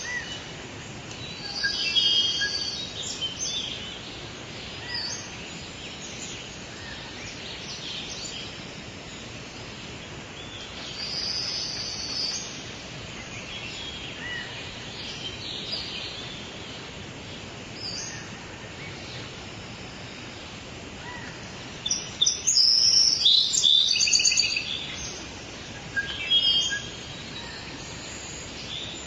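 Wild birds singing and calling in short phrases over a steady outdoor background hiss, with a loud burst of calls a little past the middle.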